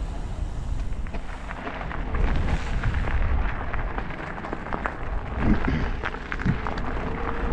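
Wind rumbling on the microphone and tyre noise from an e-bike riding along, with many small clicks and rattles from the bike. A steady hum sets in about six seconds in.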